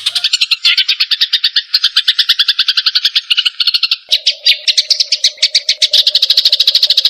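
Male white-rumped shama (murai batu) singing a long, fast, even trill of rapid repeated notes. A steady low note joins in about four seconds in.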